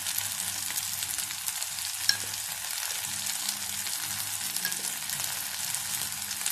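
Onions, tomatoes and sun-dried vegetables frying in oil in a stainless steel pot, a steady sizzle with fine crackling and one light click about two seconds in.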